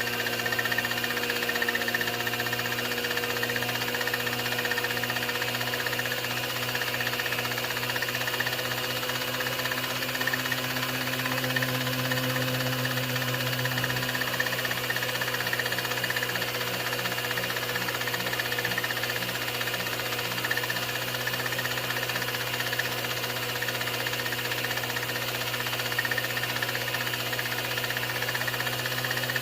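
A 16mm film projector running: a steady mechanical hum, a low drone with a higher whine above it, unbroken throughout.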